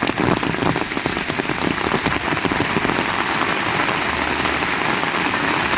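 Heavy rain falling steadily, a dense hiss of countless drops striking close by.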